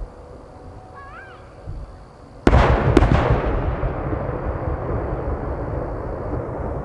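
Two large 10-go (shakudama) aerial firework shells bursting in a pair, two booms about half a second apart, followed by a long rolling rumble of echo.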